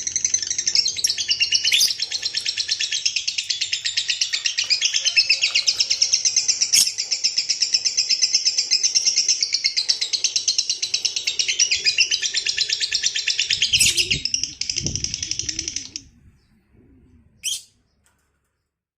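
Lovebird giving a long ngekek: a shrill, rapid chattering trill of fast repeated notes, kept up unbroken for about sixteen seconds, then cut off abruptly. A single short chirp follows near the end.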